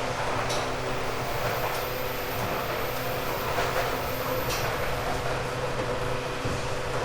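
Interior running sound of a 1978 JR East 189 series limited-express motor car, MoHa 189, with resistance control, travelling at line speed. The MT54 traction motors hum steadily over the wheel and rail noise, with a few short clicks and a faint high whistle for a few seconds.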